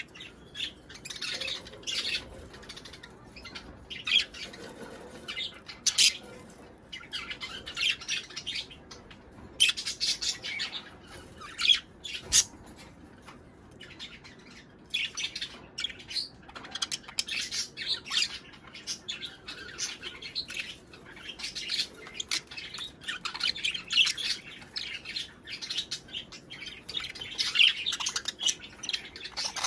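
Budgerigars chattering, with a run of irregular chirps, warbles and squawks. This is the breeding-season chatter played to stimulate pairs to mate and lay.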